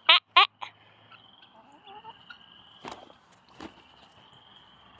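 Two short, loud squawks from backyard poultry, one right after the other, then a steady high-pitched buzz with a few faint clicks.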